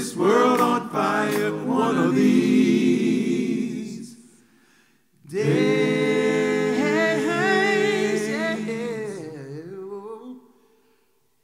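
A cappella vocal group singing wordless held chords in gospel style. The first fades out about four seconds in; a second long chord with vibrato swells and then dies away near the end.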